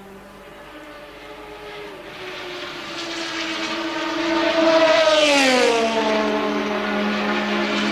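1983 Formula One race car engines: one car comes closer, getting louder, and passes about five seconds in, its engine note dropping as it goes by, while another car's engine holds a steady note underneath.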